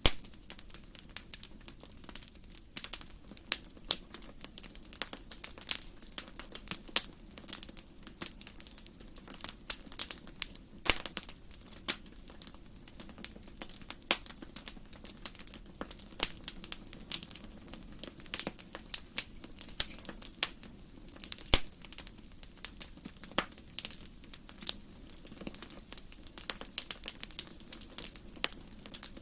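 Wood fire burning in a fireplace, crackling and popping with many sharp, irregular snaps over a low steady rumble of the flames.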